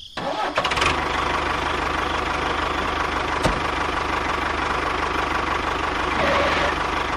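Small engine of a homemade mini tractor running steadily, starting up about half a second in, with one sharp click near the middle.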